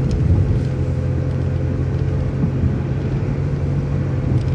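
City transit bus running steadily along the road, heard from inside the bus: a continuous low engine and drivetrain hum with road noise.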